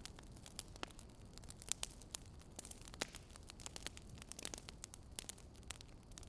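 Wood fire crackling: irregular small pops and snaps over a low steady hiss, with a couple of sharper pops near the start.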